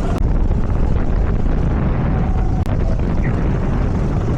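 Go-kart engine running, heard under heavy wind buffeting on the microphone.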